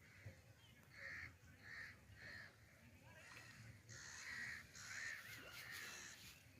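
A crow cawing faintly: three short caws about a second in, then a run of longer caws in the second half.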